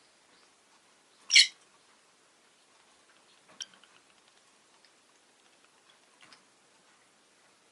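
Rosy-faced lovebird calling: one loud, sharp, high chirp about a second in, then a shorter, quieter chirp and a faint one near the end.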